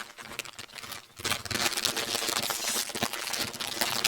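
Crinkling and rustling of a snack bag of Hostess Hickory Sticks being handled and torn open, a dense run of crackles that grows louder about a second in.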